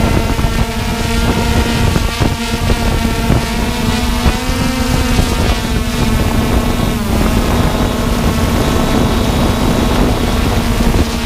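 Hubsan X4 Pro quadcopter's motors and propellers whining steadily, the pitch rising briefly near the middle and dropping about seven seconds in, with wind buffeting the microphone.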